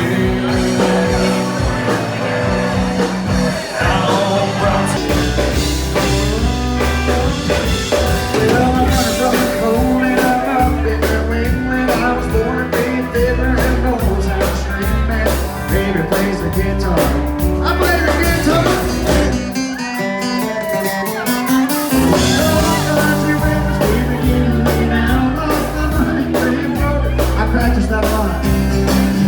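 Country band music, a guitar-led instrumental passage over a steady bass line.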